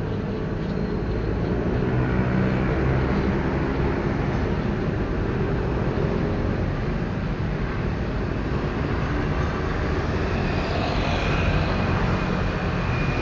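A motor running steadily, with a faint high whine coming in about ten seconds in.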